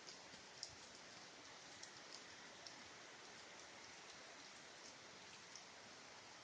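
Faint, steady rain hiss with scattered individual drops ticking on a surface.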